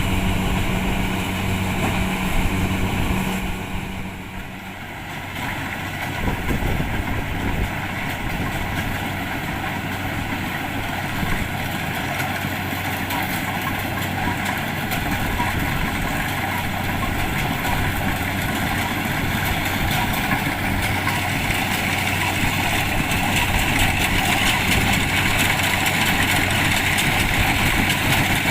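Kubota DC-70 Plus combine harvester's diesel engine and threshing machinery running steadily. A low steady hum drops out about four seconds in, and the running noise then builds slowly, growing brighter toward the end.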